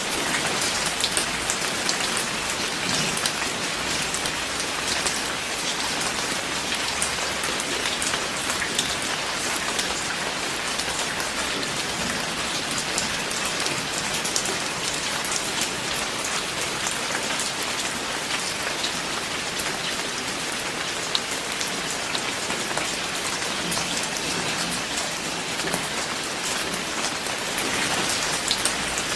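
Steady rain falling, a constant hiss with many individual drops ticking on a surface; no thunder stands out.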